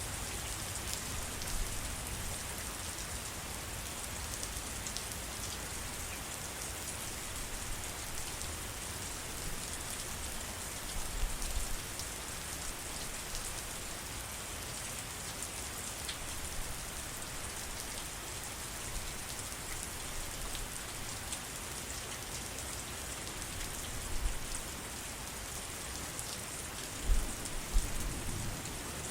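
Steady rain falling on surfaces: a dense, even hiss with scattered drop ticks. A few brief low thumps break through it, the loudest two near the end.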